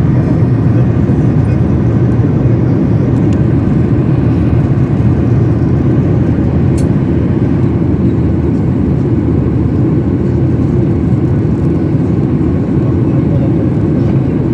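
Steady, loud jet engine and airflow noise heard inside the cabin of a Boeing 737-800, powered by CFM56-7B turbofans, as the airliner takes off and climbs. It is a constant low rumble with no change in pitch.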